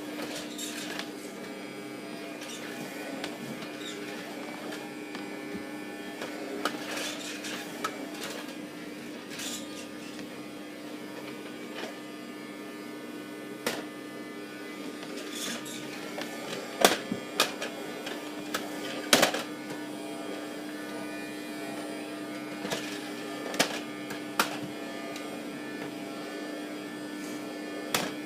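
Vacuum cleaner motors running with a steady hum, with scattered sharp knocks and clicks, the loudest clustered about two-thirds of the way through.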